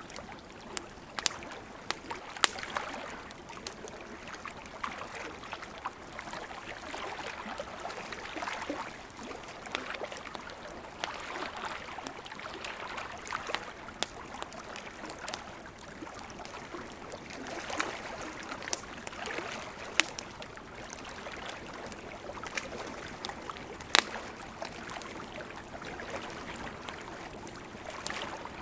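Campfire crackling, with sharp, irregular pops over the wash of ocean waves, which swells and fades every few seconds.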